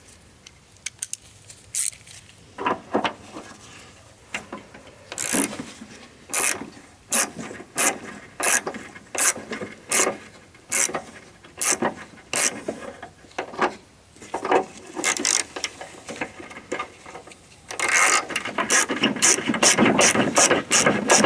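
Ratchet wrench clicking as a bolt on a lawn mower is turned, in strokes a little more than once a second, then a fast run of continuous ratcheting near the end.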